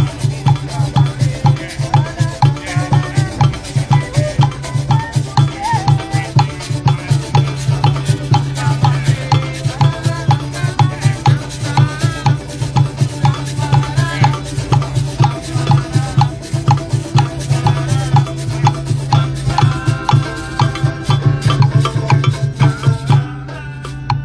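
Live rhythmic percussion music with shakers and drums keeping a fast, even beat, over a steady low hum; the music stops abruptly near the end.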